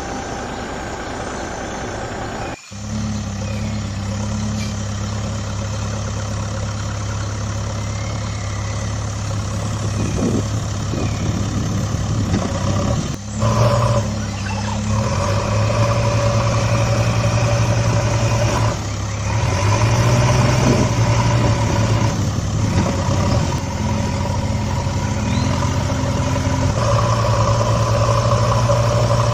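Heavy truck engine running steadily at idle, a low even hum. There is a brief break about two and a half seconds in, and a second, higher engine note joins about halfway through.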